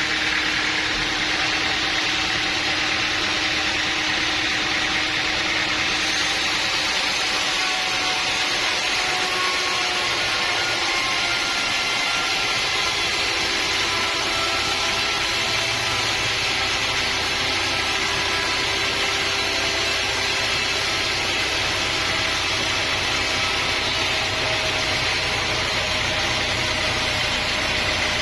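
Sawmill machinery running steadily: a steady high hiss with faint tones underneath that drift slowly in pitch.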